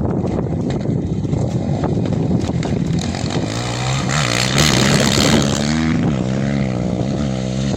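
An off-road rally vehicle's engine approaches and passes at speed, its pitch rising and falling with throttle and gear changes. It is loudest about four to five seconds in, with a rush of noise as it goes by.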